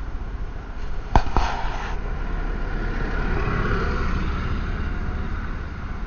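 Vehicle engine running low and steady, with two sharp bangs a fraction of a second apart about a second in.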